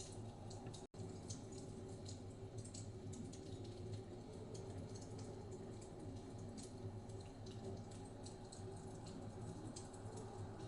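Wood fire crackling in a fireplace, with faint irregular pops and snaps over a steady low rumble. The sound drops out for a split second about a second in.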